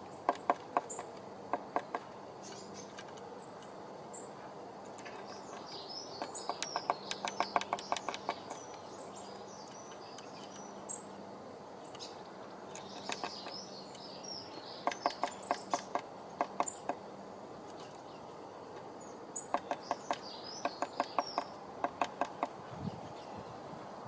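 Blue tit at a wooden nest box: several bursts of quick ticks, close to ten a second, with high, thin chirping calls over most of them.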